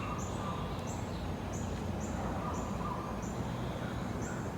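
A bird giving short, high chirps about twice a second over a steady low outdoor rumble.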